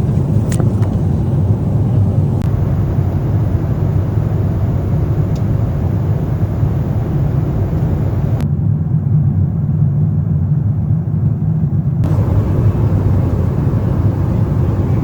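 Steady cabin noise of a Boeing 777-300ER in flight: a deep rumble of engines and airflow through the fuselage, with a light click about half a second in. The higher hiss thins out for a few seconds past the middle, then returns.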